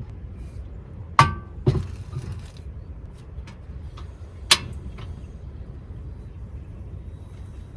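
A few sharp knocks and clinks, the first ringing briefly and the loudest two about three seconds apart, over a steady low rumble.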